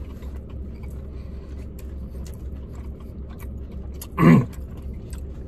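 People chewing mouthfuls of chicken sandwich, with faint scattered mouth clicks over a steady low car hum. About four seconds in, one of them makes a short, loud throat noise that falls in pitch.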